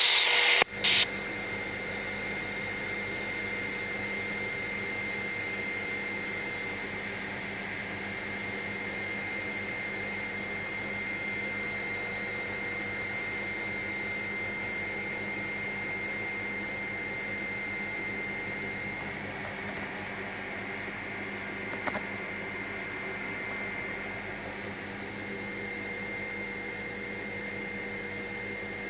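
Helicopter in flight heard from inside the cabin: steady engine and rotor noise with a thin high whine over it.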